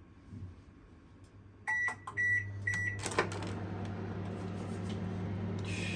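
Combination microwave-oven beeping three times as its timer ends, then a sharp click as the door is opened, followed by a steady low hum of the running appliance and a brief scrape near the end.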